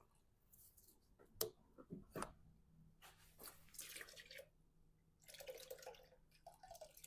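Faint clicks as a radiator hose and its clamp are worked loose, then two spells of engine coolant trickling and dripping out of the disconnected hose.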